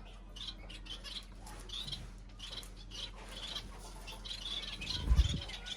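Small cage birds chirping and twittering in many short, overlapping calls, with a brief low thump about five seconds in.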